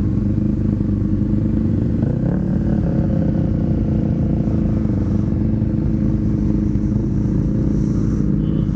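Inline-four engine of a 2006 Honda CBR600RR running steadily at an even engine speed, with no sharp revs.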